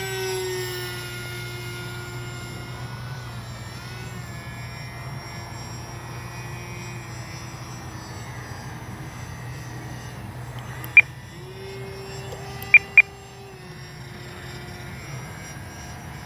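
HobbyZone AeroScout RC plane's electric motor and pusher propeller whining in flight, its pitch shifting slightly as the throttle changes. Three short, sharp beeps cut in, one about 11 seconds in and two close together about two seconds later.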